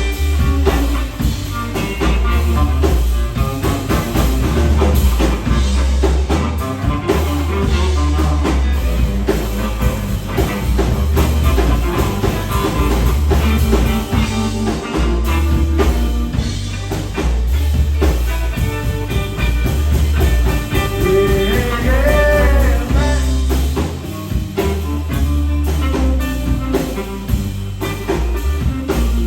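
Live blues-rock power trio playing: electric guitar lines over electric bass and a drum kit, with the guitar bending notes about two-thirds of the way in.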